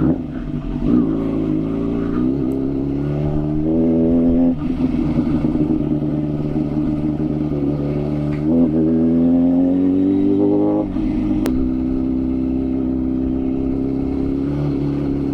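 Kawasaki ZX-6R sport bike's inline-four engine ridden at low speed, its pitch climbing as it accelerates and dropping back several times. One sharp click about three-quarters of the way through.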